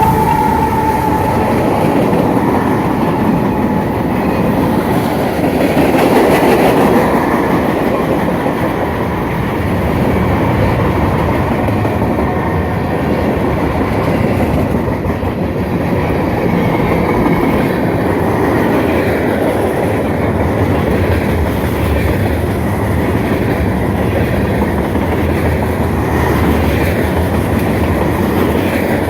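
Freight train cars rolling past, steel wheels clacking over the rail joints in a steady rumble and rattle. A locomotive horn chord trails off in the first second.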